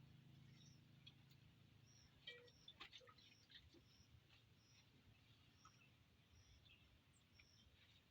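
Near silence: faint ambience with a short high chirp repeating about once a second, and a few soft clicks a couple of seconds in.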